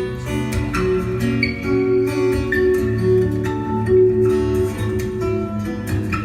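Guitar playing an instrumental piece: plucked notes with a bass line under a higher melody, played continuously.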